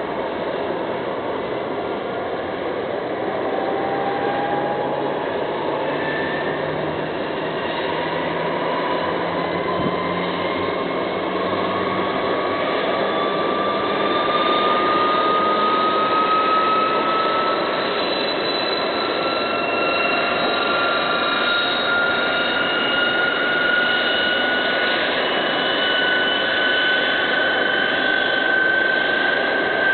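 YS-11 airliner's Rolls-Royce Dart turboprop engines running up after start, a steady whine that climbs slowly in pitch over a dense rush as the propellers speed up, growing a little louder.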